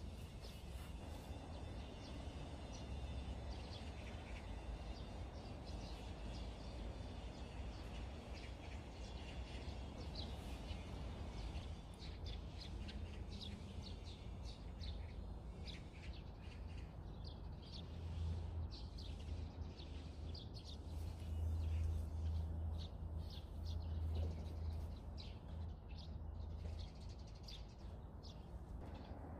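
Small birds chirping over and over in short, high notes, more thickly in the second half. Under them runs a steady low rumble that swells for a few seconds past the middle.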